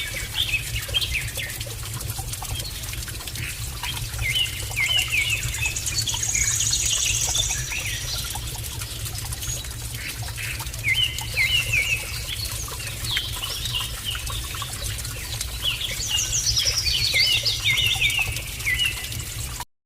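Small birds chirping in quick runs of short, bright notes over a steady low rumble; the sound cuts off just before the end.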